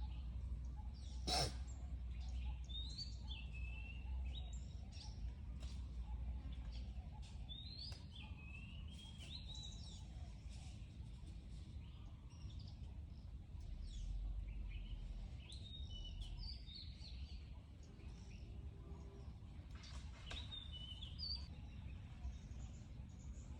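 Short high chirping calls, each a quick up-and-down glide, repeated every second or two over a low rumble, with one sharp click about a second in.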